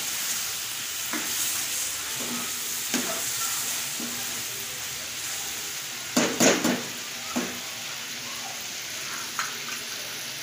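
Chicken pieces sizzling in hot oil with ginger-garlic paste in a karahi, as the bhuna (frying) stage finishes. A slotted metal spatula scrapes and knocks against the pan several times, loudest in a quick cluster about six seconds in.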